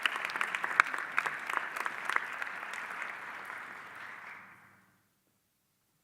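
Audience applauding, with a few sharp individual claps standing out, dying away about four and a half seconds in.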